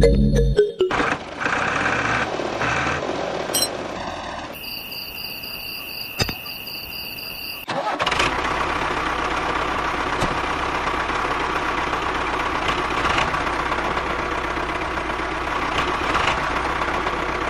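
Motor of a small homemade mini tractor running, in a few edited takes: a rougher stretch, a few seconds of steady high whine, then a long steady run.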